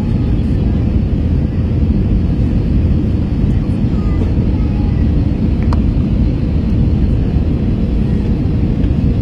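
Steady low rumble of engine and airflow noise inside an Airbus A321 airliner's cabin on final approach, with a single brief click about six seconds in.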